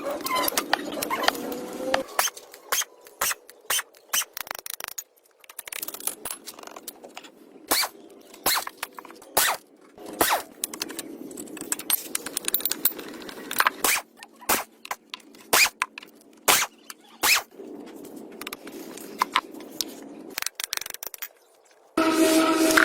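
Workshop handwork on tractor parts: scattered sharp clinks and knocks with stretches of scraping. Near the end a loud, steady machine whine starts abruptly.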